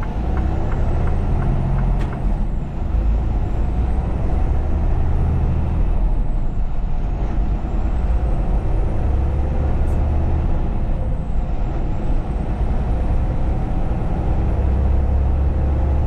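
Semi truck's diesel engine running, heard from inside the cab; its low rumble swells and eases several times. A rapid ticking sounds in the first two seconds.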